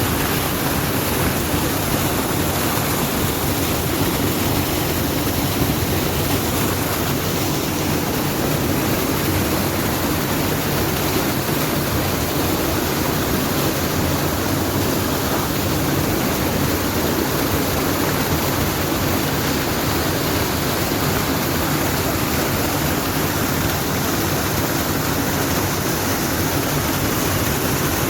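A steady, even rushing noise that holds the same level throughout, with no distinct events.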